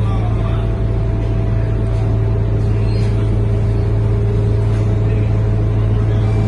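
Scania K230UB bus's diesel engine running steadily, heard from inside the cabin as a constant low drone with a faint steady whine above it.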